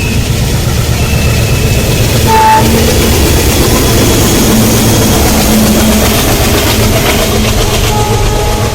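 Train running, a loud steady rumble, with a brief tone about two seconds in.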